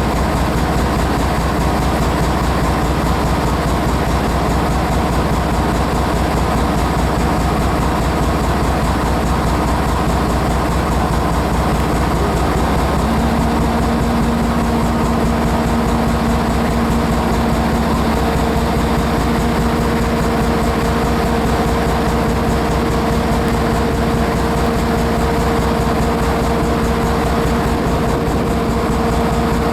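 Diesel locomotive idling with a steady low rumble. About halfway through, a steady low hum comes in, and a second, higher hum joins a few seconds later.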